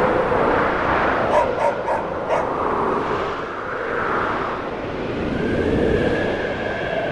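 A distant village dog barking about four times, a second or two in, over the steady noise of snowstorm wind that swells and eases.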